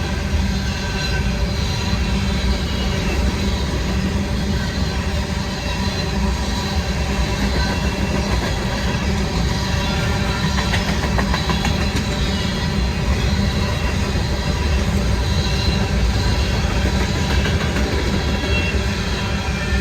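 Empty grain freight train rolling past steadily, its steel wheels running on the rails with a continuous rumble.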